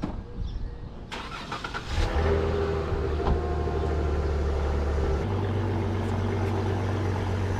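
Dodge Challenger's 3.6-litre Pentastar V6 being started: a second or so of cranking, then the engine catches about 2 s in and settles into a steady idle, its low note shifting slightly about 5 s in.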